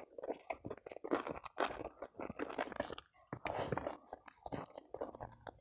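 Close-miked chewing and mouth smacking as a person eats a handful of rice and yellow-spiced chicken with sambal. The sound comes as irregular wet, crunchy bites and chews throughout.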